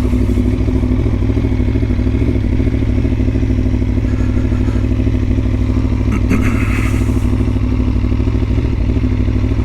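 Aprilia Tuono motorcycle engine idling steadily at a constant pitch. There is a brief clatter about six seconds in.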